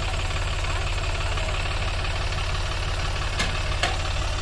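Sonalika 745 tractor's diesel engine idling steadily with an even low pulse, with two short clicks near the end.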